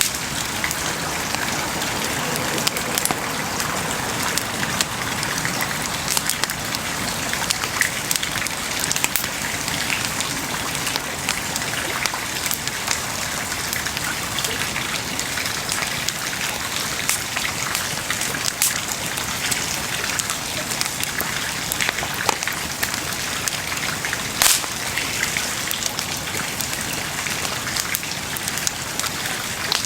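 Wood bonfire burning, crackling and hissing steadily with frequent small sharp pops, and one louder pop about 24 seconds in.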